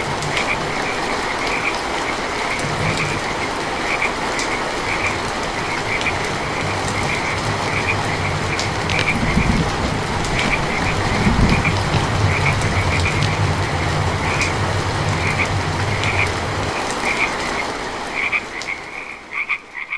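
Heavy rain falling while frogs call in a steady run of short, repeated croaks. Low thunder rumbles through the middle. The rain fades near the end, leaving the frogs calling.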